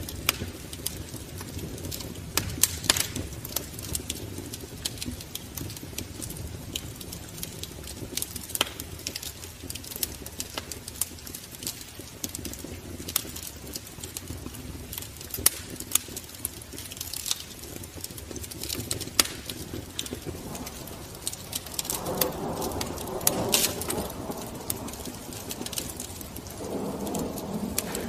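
Wood fire crackling in a fireplace, with irregular sharp pops over a low steady rush. Pigeons coo twice near the end.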